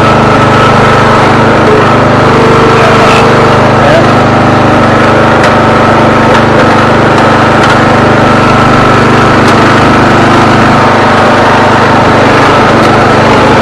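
Old lawn tractor's small engine running steadily and loud, close to the microphone.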